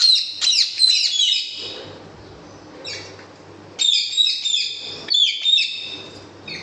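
Small birds chirping and twittering in two quick, busy bursts, one at the start and another about four seconds in.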